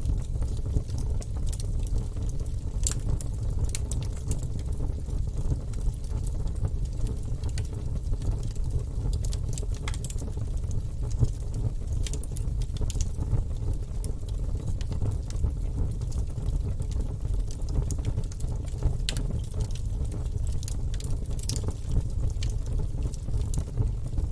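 Wood fire burning in a fireplace: a steady low rumble of flame with frequent, irregular crackles and pops from the burning logs.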